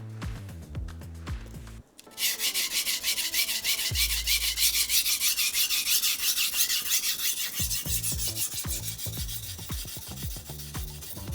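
A honyaki fugu-hiki knife's steel blade being stroked rapidly back and forth on a whetstone, a steady gritty scraping that starts about two seconds in. Background music plays before it and faintly underneath.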